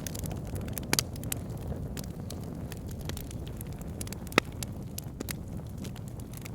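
Backyard fire pit burning: irregular sharp crackles and pops over a steady low rumble of the flames, with the loudest pop about four and a half seconds in.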